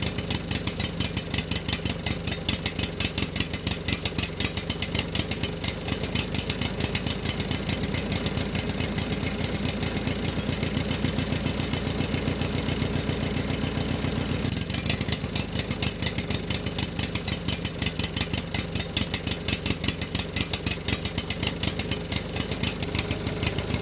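Small engine running steadily at a fast, even firing beat, with a brief dip about halfway through; it dies away right at the end.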